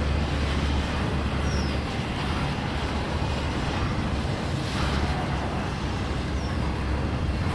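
A train passing: a steady low rumble with rolling noise.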